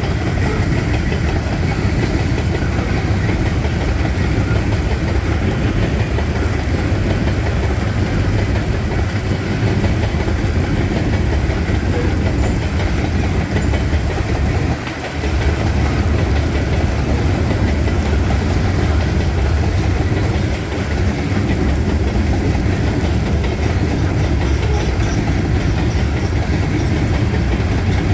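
Freight train cars rolling past close by: a steady heavy rumble with clatter of wheels over the rail joints, easing briefly twice.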